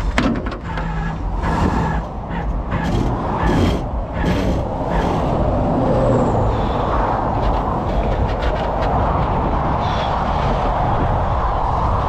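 Flatbed tow truck's engine running steadily, with a series of metal clanks and rattles in the first few seconds, then a steady whir over the engine.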